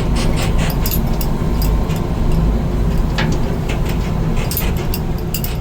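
1988 Amertek 4x4 fire truck's engine running steadily as the truck drives, with scattered clicks and knocks over the low rumble.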